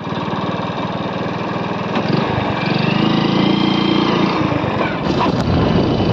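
Motorcycle engine running with a fast, even beat during a ride, over road and wind noise.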